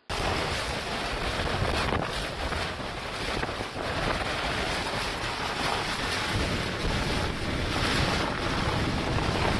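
Strong wind roaring and buffeting the microphone, a loud, continuous rush with heavy low rumble.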